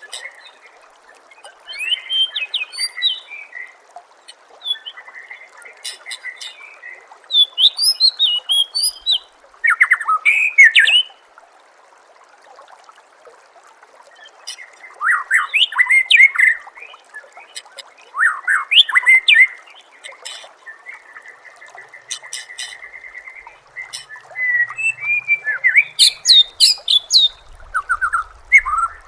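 White-rumped shama (murai batu) singing: loud bursts of varied whistles and rapid chattering phrases with short pauses between them, including a fast even trill a little past the middle. A steady hiss of flowing water runs underneath.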